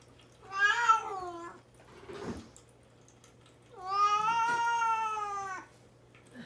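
Young cat shut in a cage meowing twice to be let out: a short wavering meow, then a long drawn-out one of nearly two seconds.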